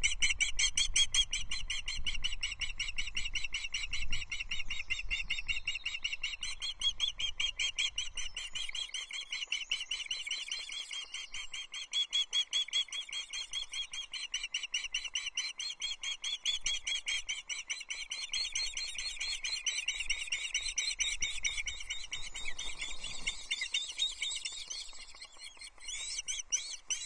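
Ospreys at the nest giving a rapid, unbroken run of high-pitched chirping calls, typical of the food-begging excitement when a fish is delivered.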